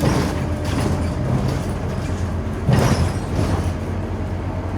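Scania OmniCity city bus in motion, heard from on board: a steady low engine and road rumble, with a brief louder burst of noise a little before three seconds in.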